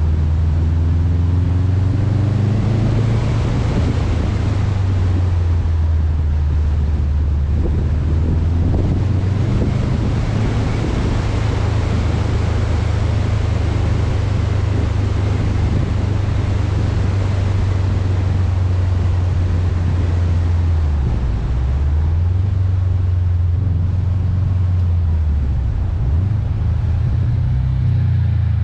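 2019 Subaru WRX STI's turbocharged flat-four droning through an Invidia N1 exhaust while driving, heavily masked by wind buffeting on the roof-mounted microphone. The engine note drops briefly about two-thirds of the way through and climbs back, and falls again near the end.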